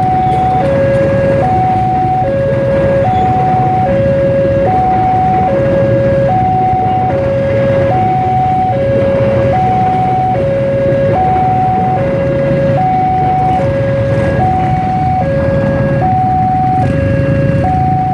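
Railway level-crossing warning alarm sounding: an electronic two-tone signal alternating evenly between a higher and a lower note, about one high-low cycle every second and a half, over a steady low rumble.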